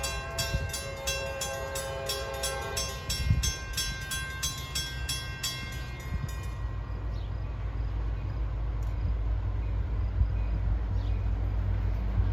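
Grade-crossing bell ringing rapidly, about three strikes a second, with a train horn sounding faintly in the first few seconds. The bell stops about six seconds in, and a train's low rumble then grows steadily louder as it approaches.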